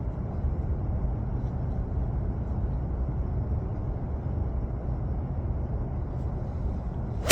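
Strong wind buffeting the microphone: a steady low rumble with no pitched tone, and a sharp click right at the end.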